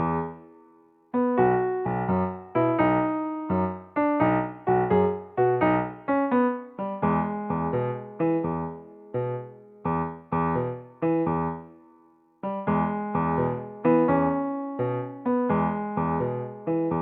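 Background music: a light keyboard tune of short struck notes and chords, each fading quickly. It pauses briefly about a second in and again about two-thirds of the way through.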